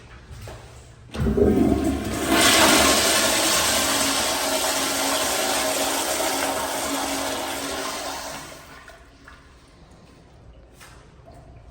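Proflo Sultan toilet flushing: a sudden low thump about a second in as the flush starts, then a loud rush of water for around six seconds that dies away near the end.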